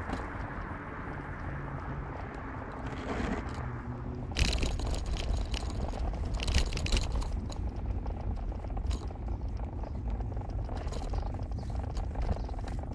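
Car on the move: a steady low rumble of engine and road noise, which grows louder about four seconds in, with light rattling and clicking.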